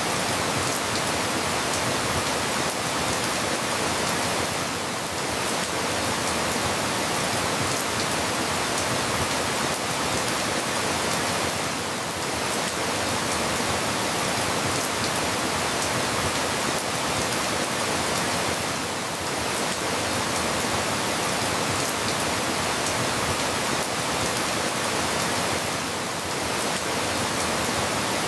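Steady rain falling, an even hiss with no single drops standing out. The loudness dips slightly about every seven seconds.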